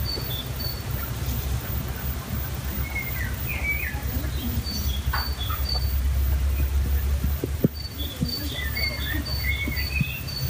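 Birds calling: a short high chirp repeated evenly, on and off, with a few warbling calls that rise and fall, over a steady low rumble.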